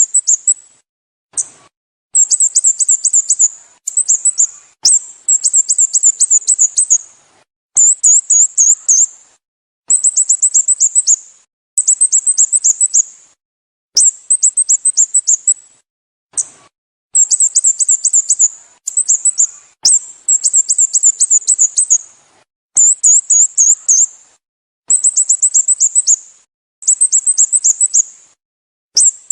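A songbird repeating bursts of rapid, very high, thin chirps, each burst about a second long, coming roughly every two seconds.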